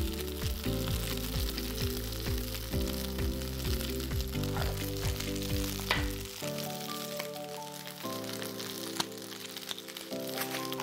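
Shaved Brussels sprout leaves sizzling in hot grapeseed oil in a pan over high heat as they char, with background music playing underneath.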